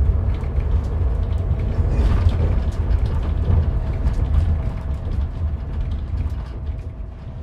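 Passenger train running, heard from inside the carriage: a steady low rumble with many short clicks and rattles and a faint steady tone over it.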